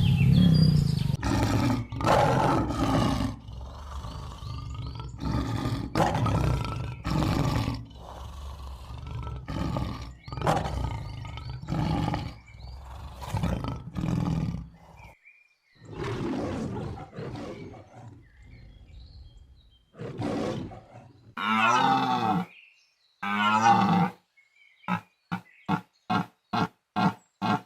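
Big cat roaring: a long series of deep roars, then after a short pause a few more calls that break into a quick run of short grunts near the end.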